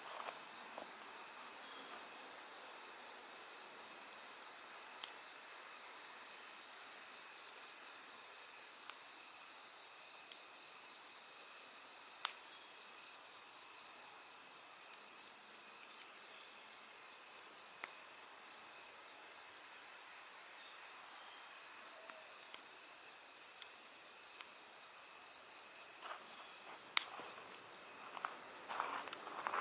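Night insects, crickets among them: a steady high trill with a chirp repeating about once a second. Under it a wood fire gives an occasional sharp crackle, with several crackles close together near the end.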